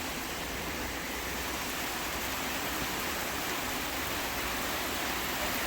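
Heavy downpour of rain falling steadily, an even hiss with no thunderclap.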